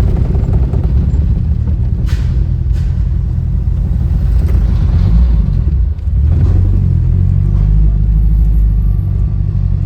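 Classic Ferrari on the road: a steady low engine rumble with road noise, dipping briefly about six seconds in before settling into an even drone.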